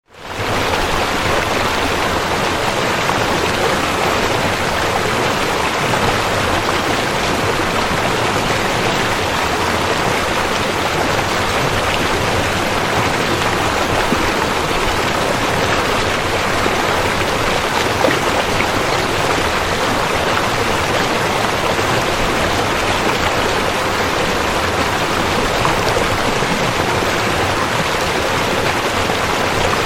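River water flowing steadily, an even rush of running water, fading back in from a short gap at the very start.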